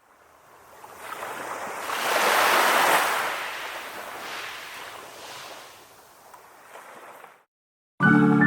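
Ocean surf: a wave swelling to a peak about two or three seconds in, then washing out and fading; it cuts off abruptly, and after a moment of silence organ-like music starts near the end.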